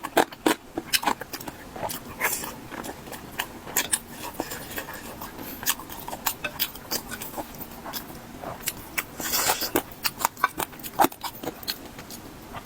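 Close-miked eating sounds: a person chewing and biting food, with many quick, irregular wet clicks and crunches.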